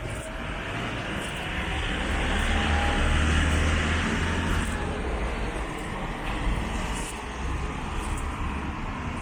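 A motor vehicle passing close by, its engine and tyre noise swelling to a peak about three seconds in and then fading, over a low rumble.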